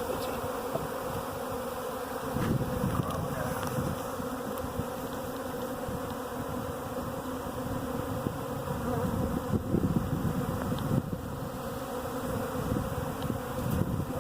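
A swarm of honey bees buzzing steadily, the massed hum of many bees in the air and around the hive box; the overall sound is calm as the swarm settles toward its queen.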